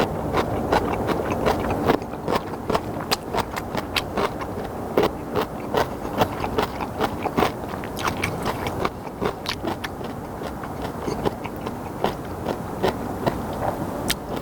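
Close-up eating of spicy instant ramen noodles: chewing and slurping, with many sharp, irregular clicks, several a second.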